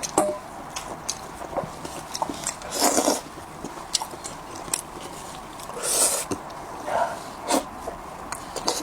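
Close-miked eating sounds: wet chewing with frequent mouth clicks and smacks. Longer noisy bursts come about 3 and 6 seconds in.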